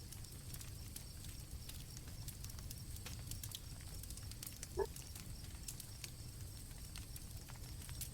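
Campfire crackling with scattered sharp pops over a steady low rumble, with crickets chirring faintly and steadily in the background. A brief rising chirp sounds once, a little under five seconds in.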